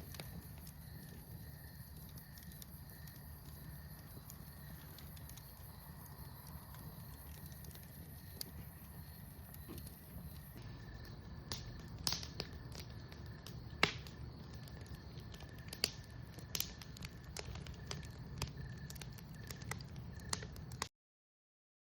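A bonfire crackling, with sharp wood pops that come more often and louder in the second half, over a steady low rumble. A high steady insect chirring drops out about halfway, and all sound cuts off just before the end.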